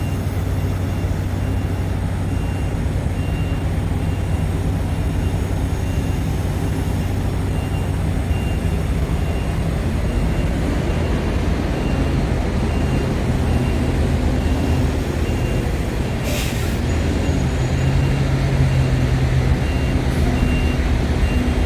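Semi truck's diesel engine running with a steady low hum while a backup alarm sounds an even series of short high beeps. About three-quarters of the way through there is a short hiss of air from the air brakes.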